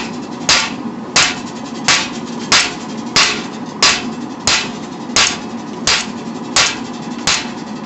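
A 4-pound hand hammer striking hot file steel on an anvil in a steady rhythm, about eleven ringing blows at roughly one and a half per second, over a constant background roar. The steel is still hard and barely flattening under the blows.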